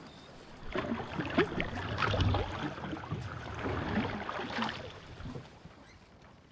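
Kayak paddle splashing in calm water. It starts under a second in and dies away after about five seconds.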